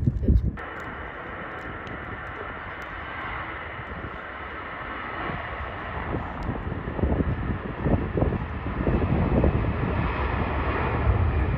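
Jet airliner engines running, a steady whining rush that grows louder toward the end as the aircraft draws nearer, with gusts of wind buffeting the microphone.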